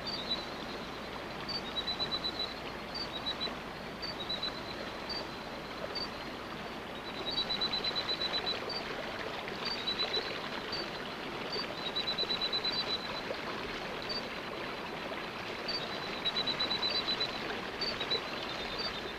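Steady rush of rainforest water under a night chorus of small frogs. High-pitched trills of about ten quick pulses come again and again, with single short peeps between them.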